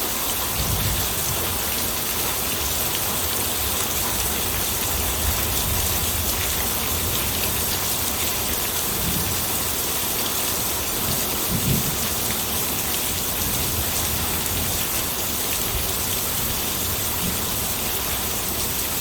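Steady heavy rain falling on a surface, a continuous hiss of drops. A few short low rumbles come through, the strongest about twelve seconds in.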